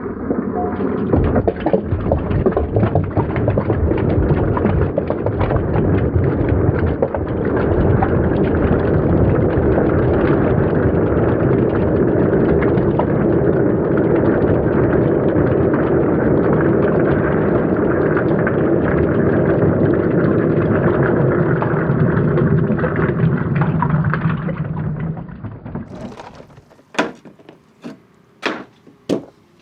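Many glass marbles rolling down wooden ramps, a steady rumble that fades away about 25 seconds in, followed by several sharp clicks as the last marbles knock and drop.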